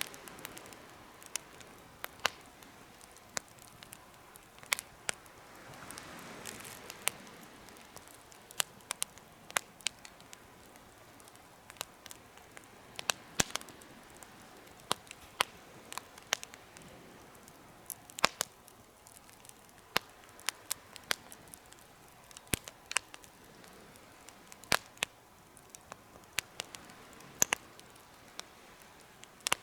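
Campfire crackling: sharp, irregular pops and snaps, a few a second, over a soft steady hiss of burning.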